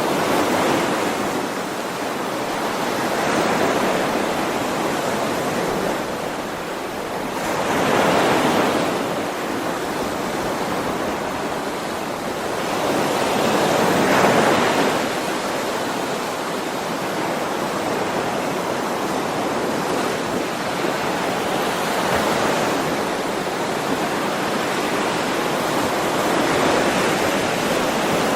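Ocean waves breaking and washing on a shore, a steady rush of surf that swells about every five or six seconds.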